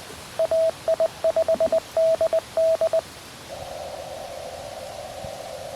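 Morse code (CW) from a QRP Labs QMX transceiver: a single steady mid-pitched tone keyed in dots and dashes for about three seconds, then a narrow band of receiver hiss heard through the CW filter.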